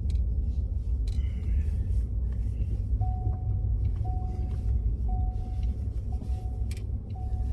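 Steady low engine and road rumble inside the cab of a four-wheel-drive Ford F-150 pickup driving on snow. From about three seconds in, a short beep repeats about once a second.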